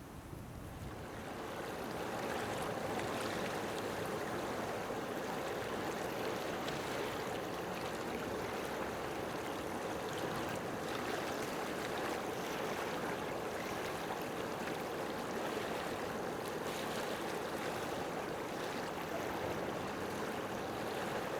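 Steady rushing noise like running water, swelling in over the first two seconds and then holding even.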